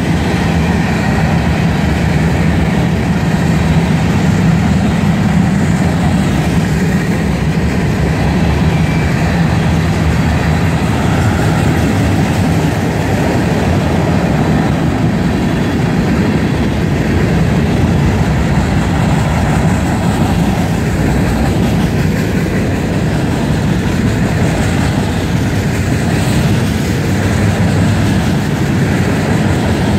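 Freight train cars (covered hoppers, tank cars and autoracks) rolling steadily past, a loud, unbroken rumble of steel wheels on the rails.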